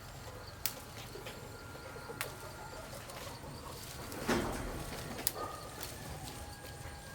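Birds calling, with a few sharp clicks and a brief rustle a little past the middle.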